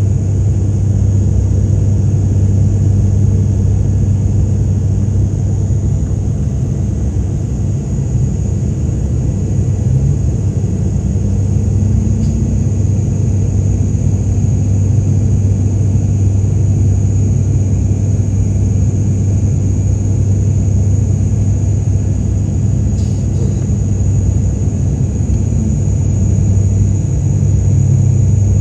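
Aircraft engines droning steadily, heard inside the passenger cabin of an airliner during takeoff and climb: a strong low hum under a rushing noise, with a thin steady high whine on top.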